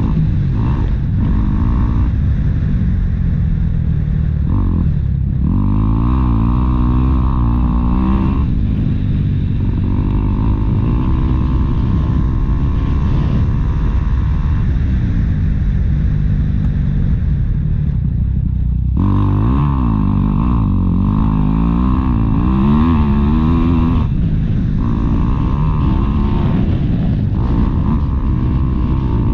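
Motocross dirt bike engine running hard, its pitch rising and falling again and again as the throttle opens and closes.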